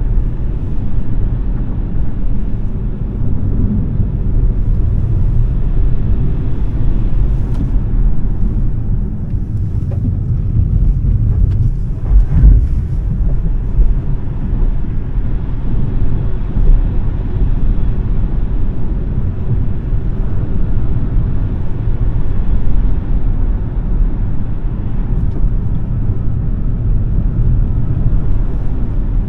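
Steady low road and tyre rumble with wind noise from a Smart #3 electric car being driven hard, with no engine note. One short thump about twelve seconds in.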